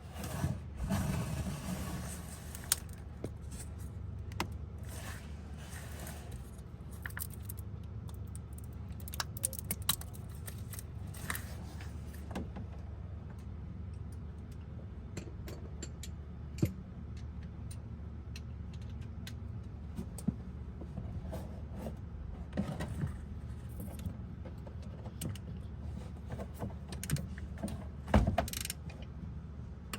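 Scattered clicks, rattles and metallic clinks of hands and tools working in an engine bay to unplug and free a crank position sensor, over a steady low hum.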